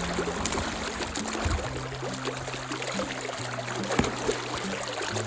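River water flowing steadily, with a low hum underneath that shifts pitch in steps every second or so.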